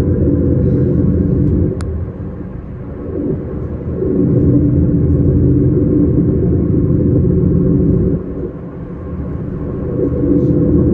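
S-Bahn train running, heard as a loud steady rumble with a droning hum, easing off twice for a second or two before picking up again.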